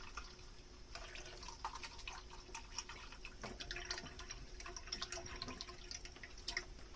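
Dishwashing at a kitchen sink: water dripping and splashing, with many scattered light clinks and taps of dishes, one sharper tap near the end.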